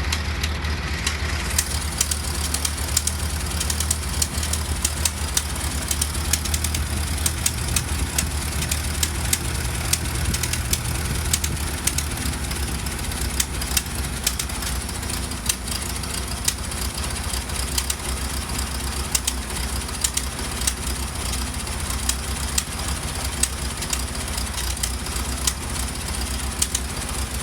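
Ford Model T four-cylinder engine running steadily with a low hum, overlaid by irregular sharp pops that sound like popcorn popping.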